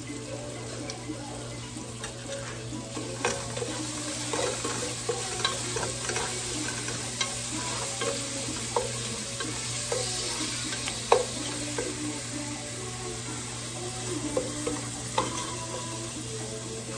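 Chopped tomatoes sizzling as they sauté in a ceramic-coated pot, stirred with a wooden spoon that clicks and scrapes against the pot now and then.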